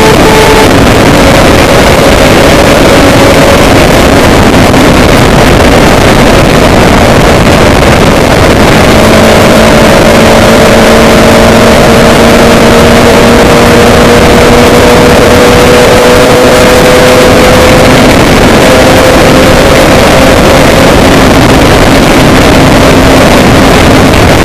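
Loud, steady engine drone under a heavy rush of noise; its faint hum rises slowly in pitch for several seconds in the middle.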